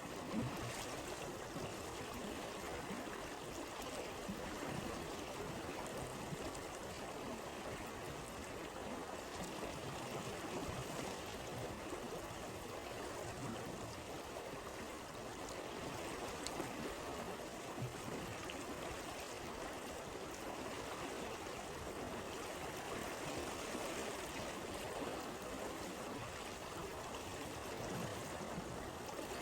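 A stream flowing steadily over stones, with a few faint crackles from a campfire.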